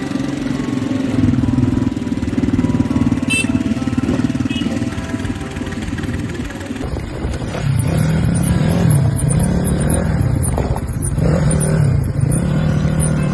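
Motorcycle engine running. In the second half its pitch rises and falls repeatedly.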